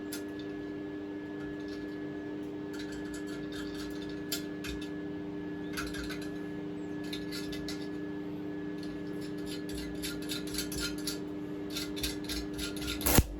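Stick welding on thin steel: a steady electrical hum of several even tones, with irregular crackling and ticking from the arc that gets busier later on, and a sharp loud crack near the end.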